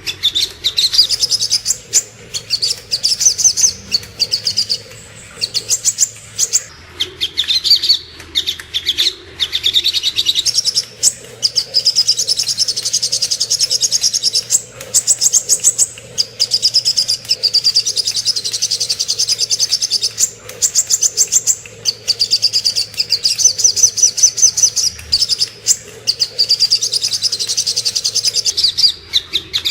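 Sogok ontong bird singing: loud, rapid chattering trills, high-pitched, delivered in phrases of one to two seconds with short pauses between them. This is a masteran recording used to tutor and lure other songbirds.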